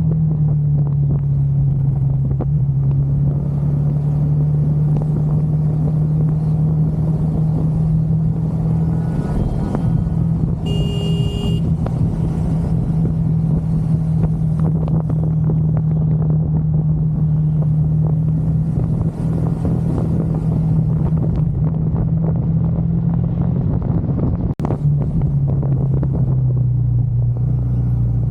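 Motorcycle engine running steadily under way, its pitch stepping up and down a little as the speed changes. A short high tone sounds briefly about eleven seconds in.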